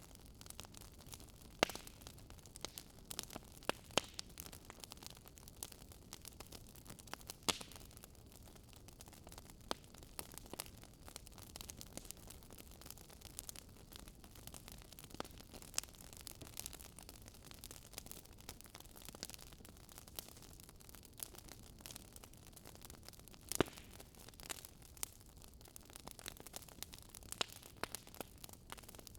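Wood fire crackling: irregular sharp pops and snaps over a low steady hiss, with a few louder pops.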